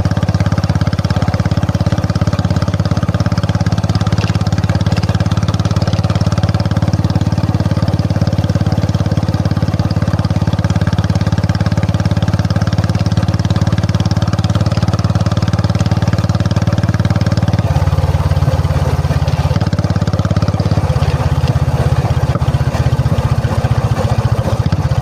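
Royal Enfield Classic 350's single-cylinder engine running steadily, its note changing about 18 seconds in and again around 21 seconds.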